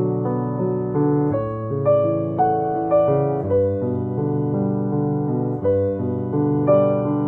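Background piano music: notes and chords struck about every half second and left to ring.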